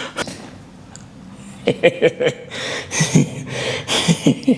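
A man's voice in short, clipped bursts, starting about a second and a half in after a quieter start.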